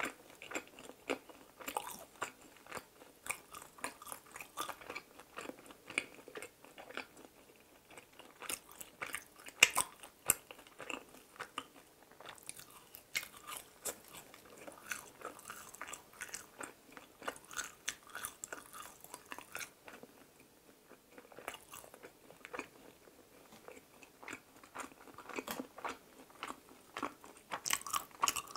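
Close-miked chewing and biting of sugar-coated mini glutinous-rice (chapssal) donuts: a dense, irregular run of wet, sticky mouth sounds and small sharp clicks, with one louder bite about ten seconds in and a brief lull about two-thirds of the way through.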